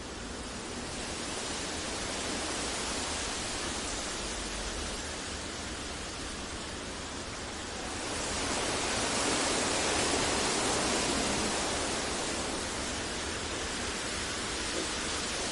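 Synthesized sleep noise: an even, rushing hiss with no tones or rhythm, swelling slowly louder about eight seconds in and easing back a few seconds later.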